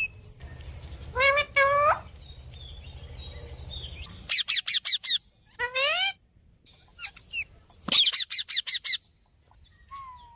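Parrot calling: two rising squawks, then a quick run of sharp repeated shrieks about four seconds in, a rising call, and another fast run of shrieks near the end.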